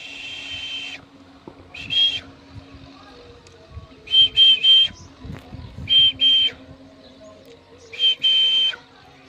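Indian ringneck parrot giving loud, shrill calls in about five bursts, some in quick runs of two or three notes, one about every two seconds.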